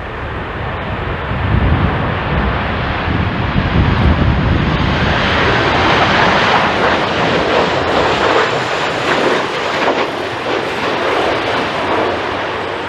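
Jet airliner's engines on landing approach. A deep rumble early on gives way to a broad rushing roar that swells around the middle as the aircraft passes, then eases off near the end.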